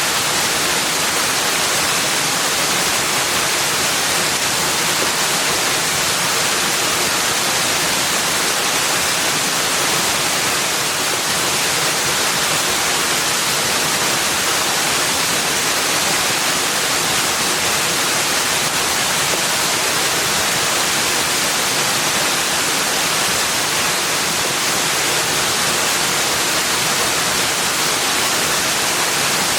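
Steady, unbroken hiss of rushing water, even in level throughout.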